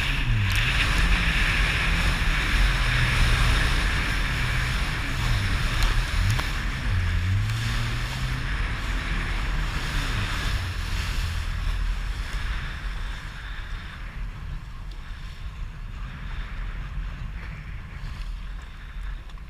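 Jet ski engine running on the water, its pitch rising and falling over the first several seconds, with wind on the microphone and water spray. The engine eases off and the whole sound grows quieter in the second half.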